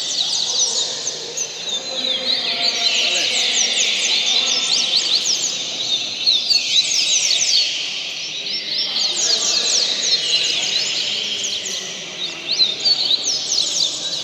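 Coleiro (double-collared seedeater) singing phrase after phrase of rapid, sweeping high notes, each phrase about two to three seconds long with short breaks between, as in a song-bird tournament.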